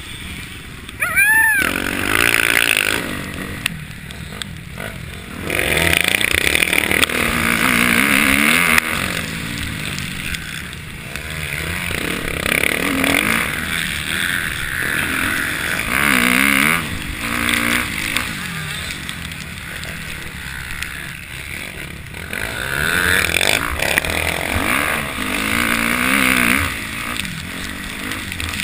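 Motocross dirt bikes riding the track, their engines revving up and dropping back as they accelerate and pass. There is a sharp rising rev about a second in, and several louder surges as bikes come close.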